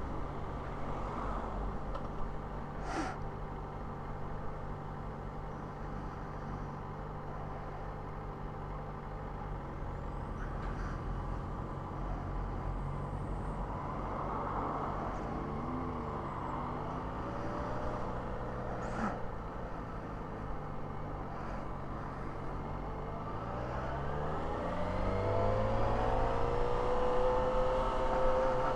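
Yamaha XJ6N motorcycle's inline-four engine running on the move; its pitch dips and rises about halfway, then climbs steadily near the end as the bike accelerates.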